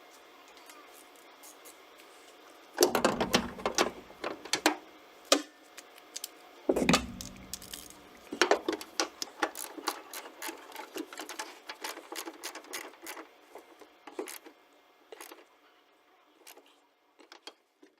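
Hand tools and car parts clicking and knocking while a Mazda Miata's rear shocks and trim panel are fastened. There are two louder thumps about 3 and 7 seconds in, then quick irregular clicking.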